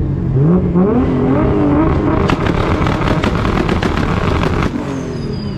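Car engine accelerating hard, its pitch climbing and dropping back at each gear change. It then breaks into a rapid fluttering crackle for a couple of seconds, and near the end a high whistle falls away.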